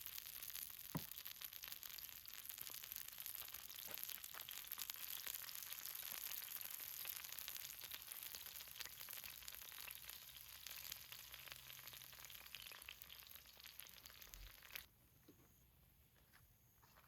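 Seafood green-onion pancake frying in oil on an iron cauldron lid, a steady dense sizzle with fine crackles; it cuts off abruptly near the end.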